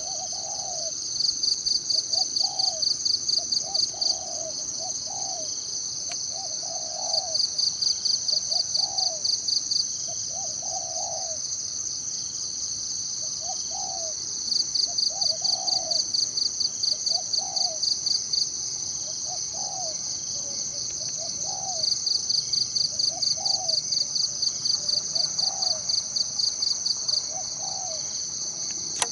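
Forest ambience: insects shrill steadily, with runs of fast pulsing trills lasting about three seconds that come back four times. Under them a bird gives short low calls, about one a second.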